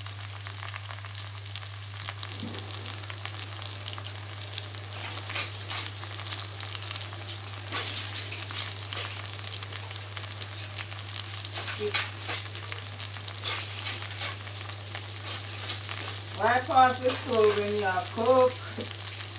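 Diced peppers and onions frying in an enamelled cast-iron casserole pot, a steady sizzle with scattered crackles and pops.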